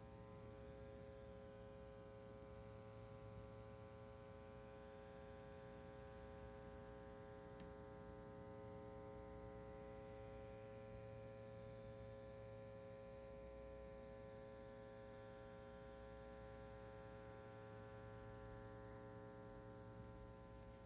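Faint, steady mains hum with a buzzy stack of overtones from a system running through a NuPrime AMG PRA preamp. The owner puts the noise down to its unbalanced RCA input and output connections.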